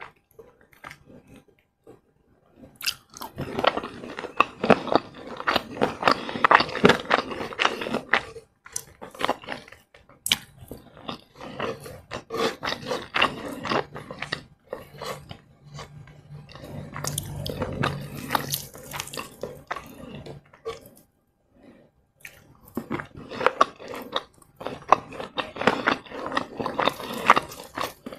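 Close-miked chewing of crispy fried chicken: runs of crackly crunching that stop and start again several times, with a low steady hum for a few seconds past the middle.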